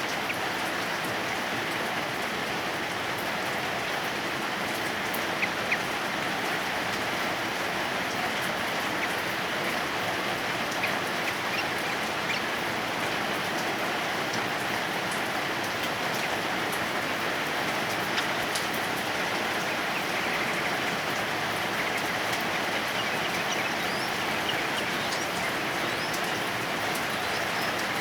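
Heavy rain falling steadily, with a few faint, brief bird notes here and there from a yellow-vented bulbul.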